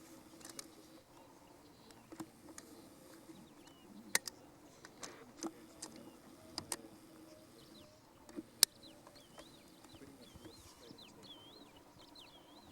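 A bird sings a quick, repeated, looping whistled note from about ten seconds in. Before that, scattered sharp clicks sound over a faint steady hum, the loudest clicks about four and eight and a half seconds in.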